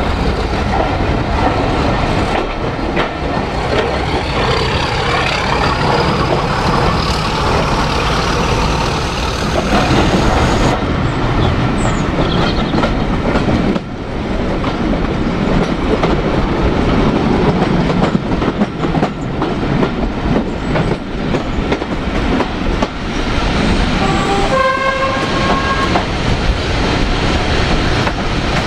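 Heritage railway train running with a steady rumble, and a faint rising whine in the first ten seconds. About four seconds before the end a locomotive horn sounds a blast of about a second, and it sounds again at the very end.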